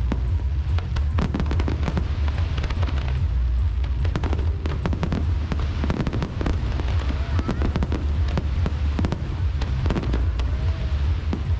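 Aerial fireworks display: many rapid, overlapping bangs and crackles from bursting shells, over a continuous low rumble.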